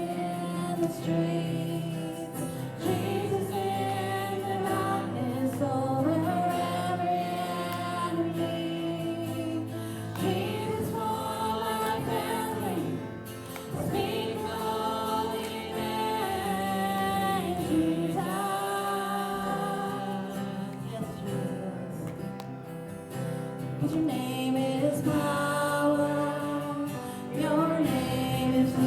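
Gospel music: voices singing a song with instrumental accompaniment, holding long notes.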